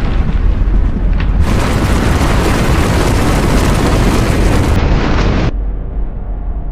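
Loud, rumbling roar of blizzard wind buffeting the microphone, broken by abrupt edits. About five and a half seconds in it cuts to a quieter, muffled sound with faint sustained eerie tones.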